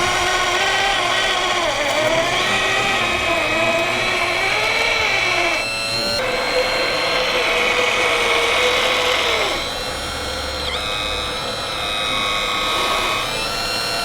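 Small electric motors of radio-controlled model construction machines whining together, several pitches rising and falling as the machines work. The mix of tones changes about six seconds in and again near ten seconds.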